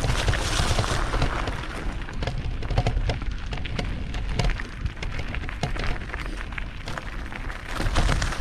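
Mountain bike riding over a rough trail of loose rocks: tyres crunching on stones with many scattered clicks and rattles as the bike jolts over bumps, over a constant low rumble.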